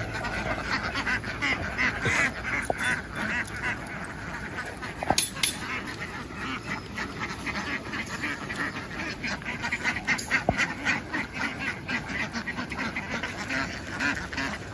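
A large flock of domestic ducks quacking continuously, hundreds of calls overlapping into a dense chatter, with a few brief knocks.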